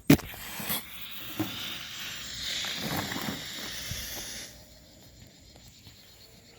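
Pull-string smoke grenade igniting: a sharp snap as the string is pulled, then a steady hiss of smoke pouring out that dies down after about four and a half seconds.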